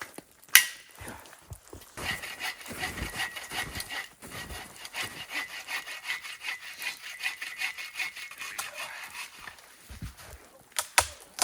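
Hand saw cutting through the trunk of a small dry standing tree with quick, even back-and-forth strokes for about seven seconds. There is a sharp knock about half a second in and a few more knocks near the end.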